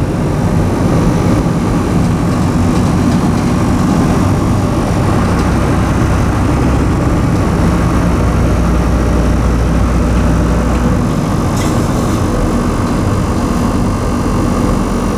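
Ramp truck carrying a loaded vehicle, its engine running steadily as it drives along the road. A deep low drone strengthens in the middle and drops away about eleven seconds in.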